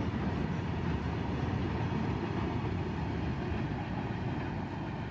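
Freight train of open wagons rolling past on the track: a steady, even rumble.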